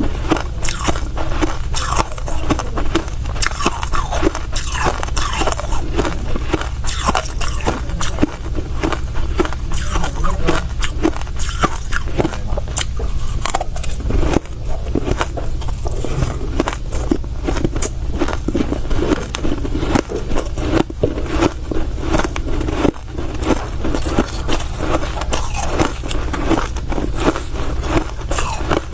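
Close-miked biting and crunching of soft crushed ice: a continuous run of quick crunches and crackles as mouthfuls are chewed.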